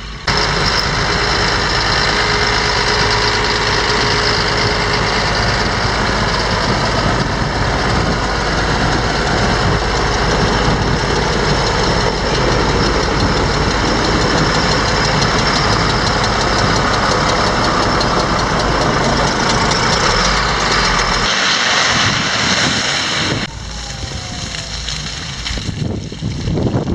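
Heavy vehicle engine running steadily with a low rumble, close by. The rumble stops about 21 seconds in and the noise falls away soon after.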